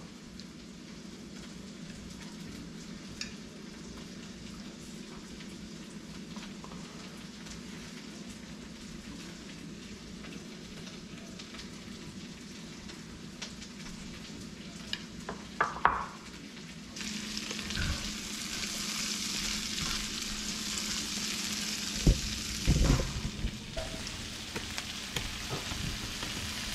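Onions and peppers sizzling in oil in a cast-iron skillet, starting about two-thirds of the way through, with a few knocks from a spatula stirring them in the pan. Before that there is only a quiet steady hum with a few light clicks of handling.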